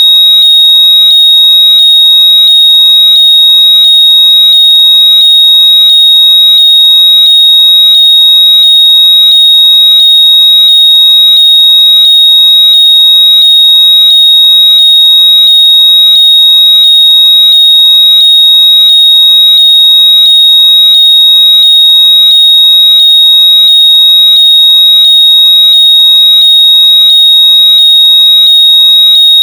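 Very loud electronic locator tone for finding lost earbuds: a steady, piercing high-pitched whistle with a lower rising chirp repeating a little faster than once a second, like a fire alarm.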